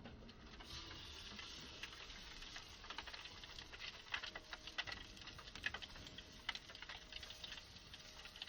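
Rapid, irregular light clicking and crackling over a faint steady hiss.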